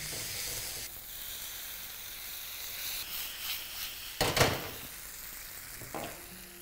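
Onion and spice masala sizzling steadily as it fries in a frying pan, stirred with a wooden spatula, with one louder scrape of the spatula through the pan about four seconds in and a lighter one near the end.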